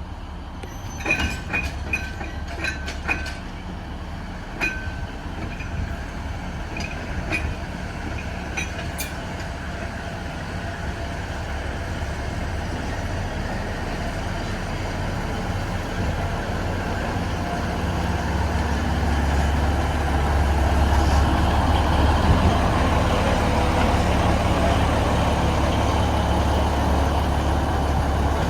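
Alishan Forest Railway diesel locomotives shunting. A run of sharp, ringing metallic clicks and clanks from the wheels and rail in the first several seconds. Then a low diesel engine rumble that grows louder from about two-thirds of the way in.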